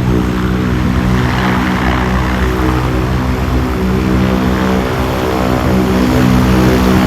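Bushcat light aircraft's piston engine and propeller running steadily at low power while it taxis after landing.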